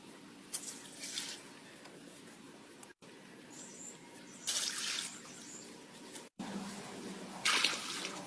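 Water splashing in three short bursts over a faint steady background.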